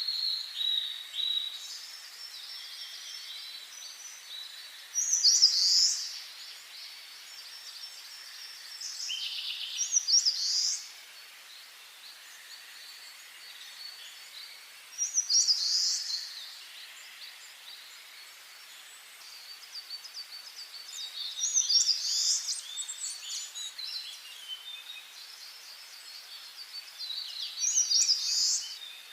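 Songbirds singing: loud, high song phrases of a second or two, repeated about every five or six seconds, with softer continuous twittering between.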